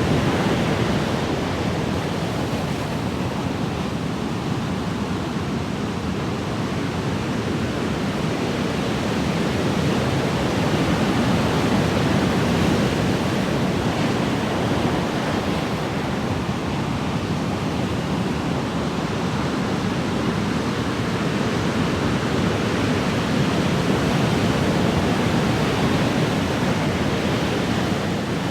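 Ocean surf washing continuously, a steady rushing sound that swells and eases slowly over several seconds.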